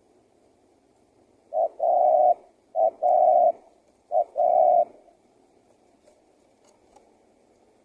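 Male spotted dove (tekukur) cooing: three phrases about a second apart, each a short note followed by a longer held coo, then it falls quiet.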